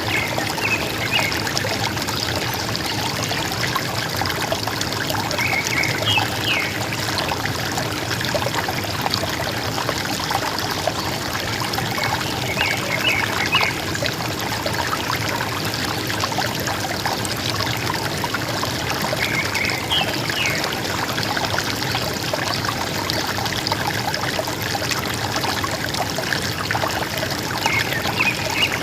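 River water gurgling and trickling steadily, with a bird's short call of a few quick chirps coming about every six to seven seconds, five times in all.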